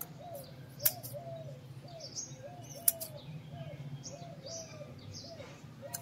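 Birds calling: a soft arched note repeated about twice a second, with higher chirps scattered over it. Two sharp clicks, about a second in and about three seconds in.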